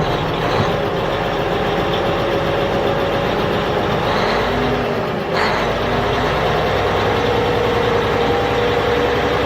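Truck engine running steadily at idle, with a brief break about five seconds in before it picks up again.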